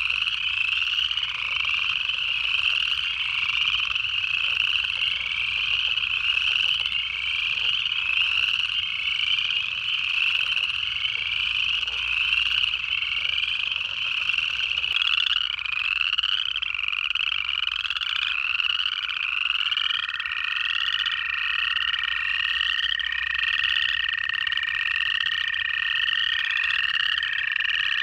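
Dense chorus of upland chorus frogs, many overlapping rising trills repeating without pause. About two-thirds of the way in, a long, steady, even-pitched trill of an American toad joins and carries on to the end.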